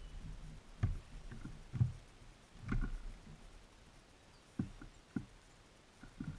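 Muffled, irregular knocks and taps of small birds landing on and pecking at a bird feeder close to the microphone, about half a dozen in a few seconds.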